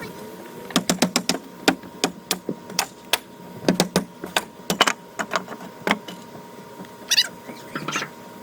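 Deck demolition in a sped-up recording: a fast, irregular run of sharp knocks and cracks from deck boards being pried and hammered apart, with a few brief high squeaks.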